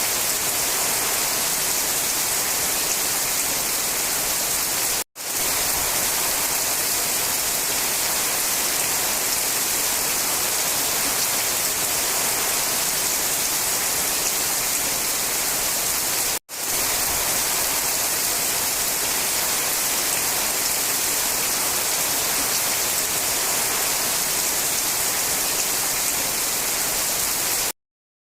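Steady rain falling, an even hiss with no single drops standing out. It drops out for an instant twice, about five seconds in and again about sixteen seconds in, and stops abruptly just before the end.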